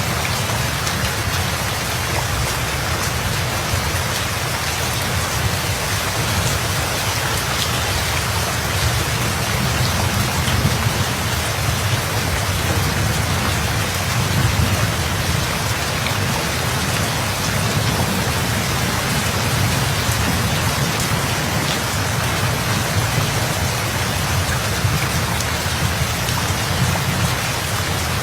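Steady rain falling hard, a dense even hiss of drops, under a low rolling rumble of thunder that swells a little about a third and halfway through.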